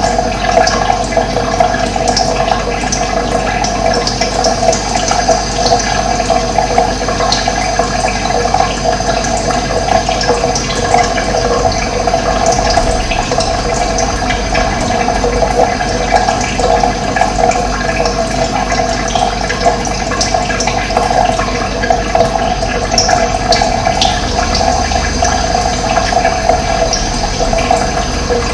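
Running water flowing steadily, a dense, even rush with no change in level.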